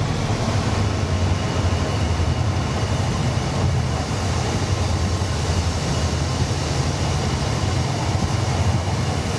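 A train running with a steady, loud low rumble.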